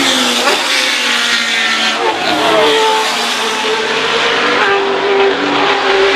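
Several historic racing cars' engines at high revs going past trackside, their notes overlapping. The pitch falls at the start, then climbs about two seconds in and holds high.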